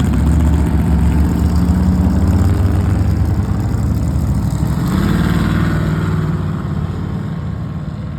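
Engines of rod-and-custom cars and trucks rumbling past at low speed, deep and steady, with the pitch rising about five seconds in as one accelerates, then fading away toward the end.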